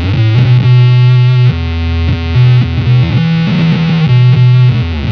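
Electric guitar played through an EarthQuaker Devices Data Corrupter PLL synth/harmonizer pedal with its subharmonic oscillator voice turned up. It makes synth-like sustained notes with a strong low tone under them, changing pitch every second or so.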